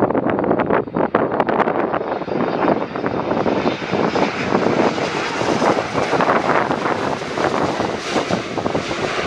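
Boeing 777-9's GE9X turbofan engines heard as it flies in to land, a broad rushing jet noise that swells from about two seconds in, with wind buffeting the microphone.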